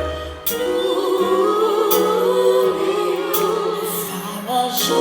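Live band with voices singing a held, wavering vocal line with vibrato, over cymbal hits about every one and a half seconds.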